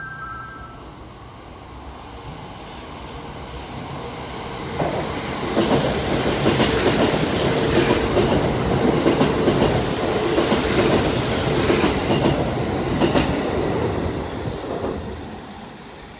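Kintetsu limited express train running through the station without stopping: the rumble of wheels and motors builds, stays loud for about eight seconds with rail-joint clacks, then fades as the train recedes. A brief two-note chime sounds at the very start.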